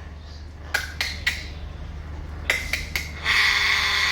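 Parrots clicking sharply about five times, then a drawn-out harsh rasping call starting about three seconds in.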